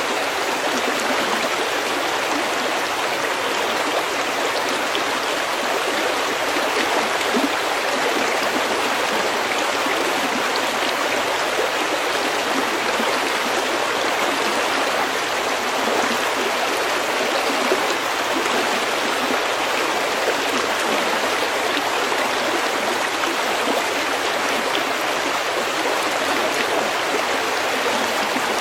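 Stream water flowing steadily over pebbles.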